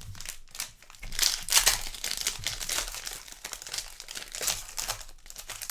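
Trading-card packs and cards being handled, with irregular crinkling and rustling, a quick stream of small crackles throughout.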